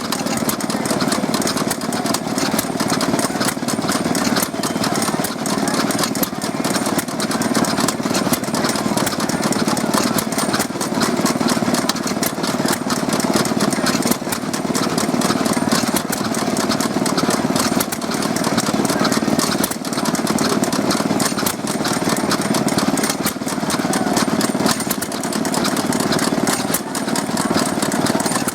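Vintage Stewart Little Wonder stationary engines running steadily, with rapid, even firing strokes.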